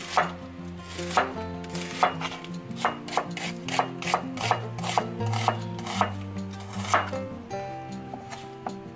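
Chef's knife slicing an onion into wedges on a wooden cutting board: a series of sharp knife strikes on the board, about two a second, fewer near the end.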